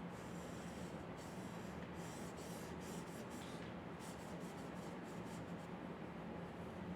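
A drawing tool scratching across paper in a series of short strokes, over a steady low hum.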